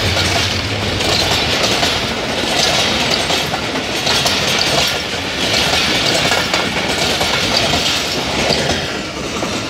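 Passenger train coaches rushing past at speed, their wheels clattering over the rail joints in a steady rush that swells every second or two. The locomotive's low engine drone fades out about a second in.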